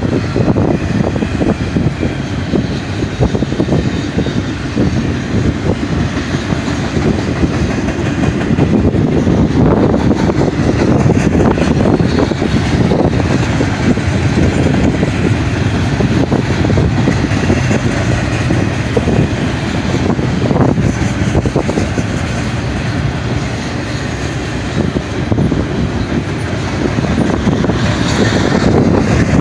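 Double-stack container cars of a freight train rolling past at speed: a steady rumble of steel wheels on rail with scattered clickety-clack.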